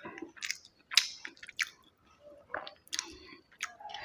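A person chewing food close to the microphone, with a series of short, sharp wet smacks and squishes about every half second.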